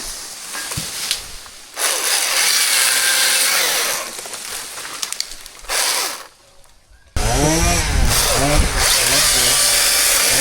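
Chainsaw engine running and revving, its pitch rising and falling repeatedly. It is loud from about two seconds in, drops out briefly past the middle, then comes back loud with quick rev sweeps.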